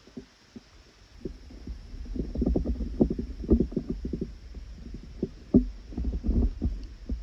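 Irregular dull knocks and thumps close by, over a low rumble, thickening about two seconds in and easing off near the end.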